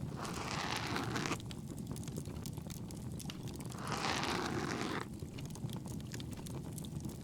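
Ear-pick scratching in an ASMR ear cleaning, two rough strokes of about a second each, the second about four seconds in, over steady crackling of a bonfire.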